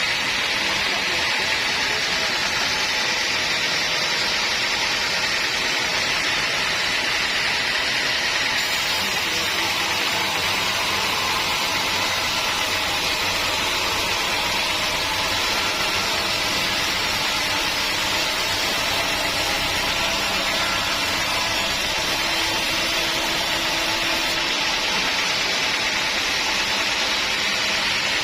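Sawmill machinery running steadily: a loud, even hissing whir with no pauses or changes.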